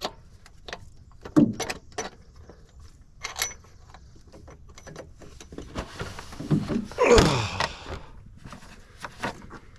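Scattered metallic clicks, taps and knocks of hand tools and bolts while a starter motor is being worked loose. About six to eight seconds in there is a longer, louder scraping and rubbing as parts are shifted.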